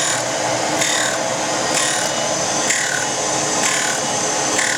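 Oliver Model 600 drill grinder sharpening a drill, a steady grinding sound with a rasping swell about once a second as the auto-oscillating holder sweeps the drill across the wheel.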